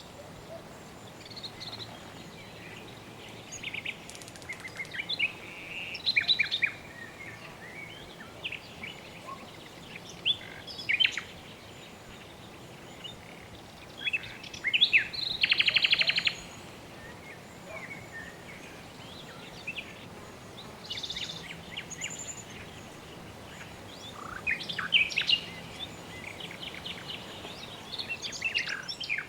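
Birds chirping and calling in scattered short phrases, with one dense rapid trill about halfway through, over a steady soft background hiss.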